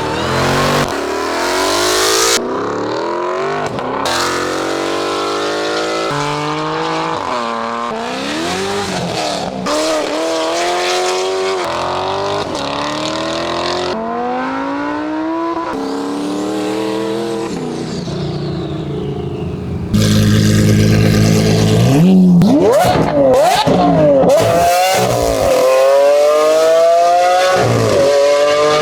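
Car engines revving and accelerating hard one after another, the engine pitch climbing again and again, with the sound changing abruptly every second or two. About twenty seconds in it gets louder, with a deep low rumble and quick sharp revs.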